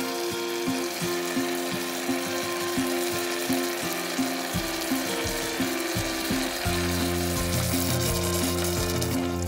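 Tomatoes sizzling in a stainless-steel electric cooking pot, a steady hiss, with light background music playing over it.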